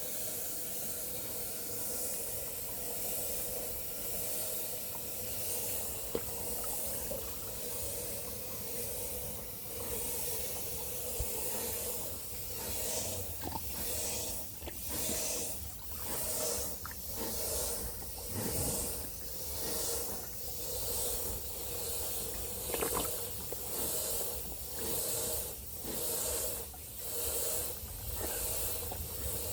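Steady outdoor hiss with a faint steady hum. About halfway through it is joined by a rhythmic swishing that comes about once a second.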